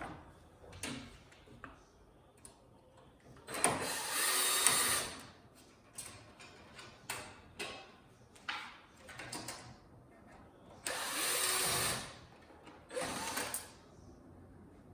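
Small power driver motor running in three short bursts of about a second each while screws are backed out, with scattered clicks and taps of parts and screws being handled between the bursts.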